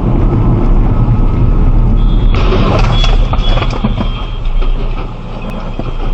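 Heavy truck running with a loud, low engine rumble. About two seconds in comes a sudden noisy burst with a high squeal that lasts over a second, among scattered knocks.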